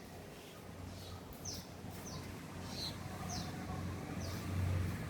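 A small bird chirping over and over, each chirp short, high and falling in pitch, about one or two a second. A low steady motor hum underneath grows louder near the end.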